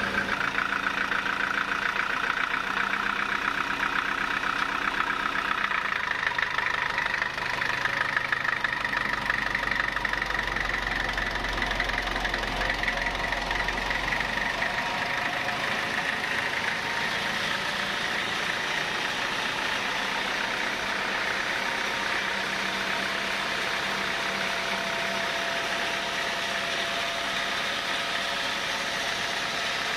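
Sawmill saw running and cutting through thick timber: a steady machine whine over a dense rasp. A low hum swells about nine seconds in and fades out around fifteen seconds.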